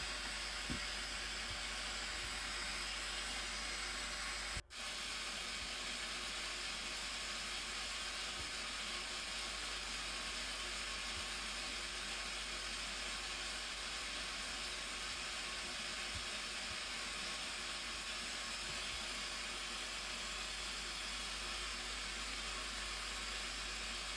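Steady hissing rush of a waterfall's falling water, with no change in its sound except a momentary cut-out about five seconds in.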